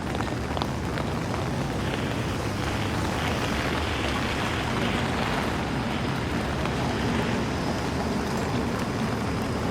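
Heavy rain on a city street: a steady wet hiss with the low noise of traffic on wet pavement, and a few sharp ticks in the first second.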